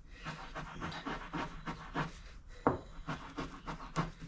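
Quick back-and-forth hand scrubbing of a brake wheel cylinder part with an abrasive, about three to four strokes a second, with a couple of sharper clicks in the second half, cleaning off crud.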